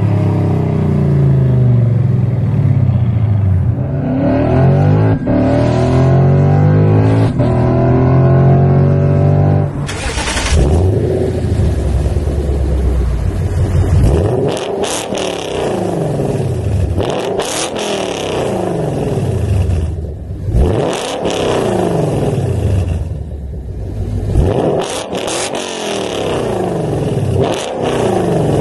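Lexus IS F's 5.0-litre V8 revving, its pitch climbing and falling again and again. About ten seconds in the sound changes abruptly to a run of quick rev climbs and drops, repeated every two to three seconds.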